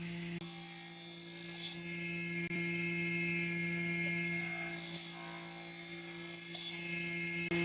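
A steady electrical hum, two low tones holding level, with faint higher whining tones and a couple of brief soft noises over it.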